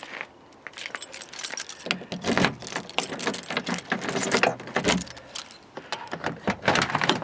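A bunch of keys jangling and clinking as they are handled to unlock a truck door, with a few duller knocks among them.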